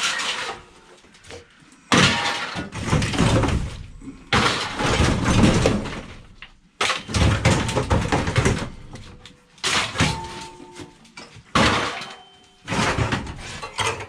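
Scrap being broken up and handled: a run of about seven crashing, clattering bursts, each dying away within a second or two, with brief metallic ringing among them.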